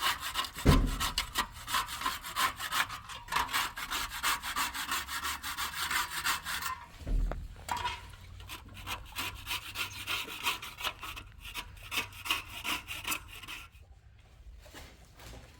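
Rapid, rhythmic scraping strokes of a hand tool working a rough surface, with two dull thuds, one near the start and one about seven seconds in. The strokes die away near the end.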